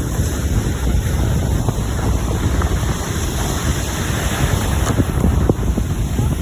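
Strong wind buffeting the microphone with a steady low rumble, over the wash of sea waves.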